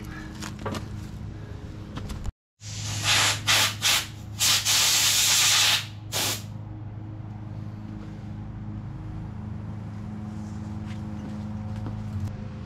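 Several short hissing spray bursts, then one longer burst of about a second and a half and a last short one, over a steady low hum.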